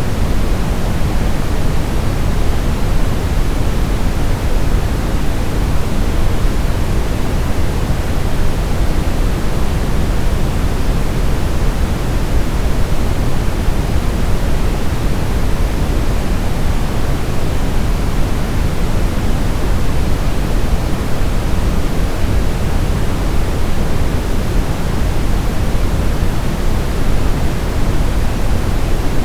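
Steady, unbroken synthetic noise played as a baby sleep aid, a deep, even hiss heavier in the low end than in the highs, with no change in level.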